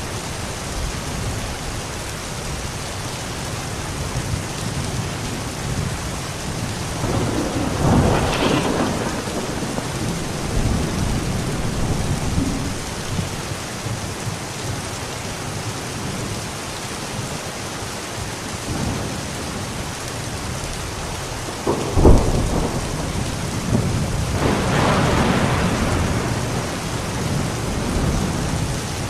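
Steady heavy rain with thunder: a rumble about eight seconds in, then a sharp crack a little after twenty seconds, followed by a longer rolling rumble.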